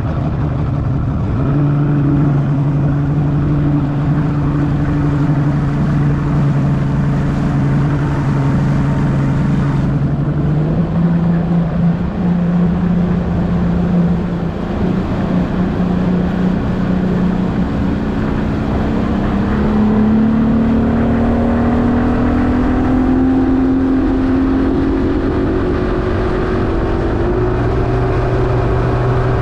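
Mercury 150 Black Max XR4 two-stroke V6 outboard running steadily. Its pitch steps up about ten seconds in, then climbs gradually through the second half as the engine speeds up, before levelling off near the end.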